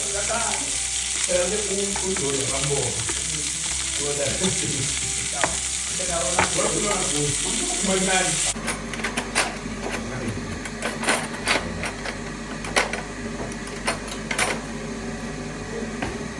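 Food sizzling in a cooking pot as a steady hiss. It stops abruptly about eight and a half seconds in. A quieter background follows, with scattered sharp clicks and knocks.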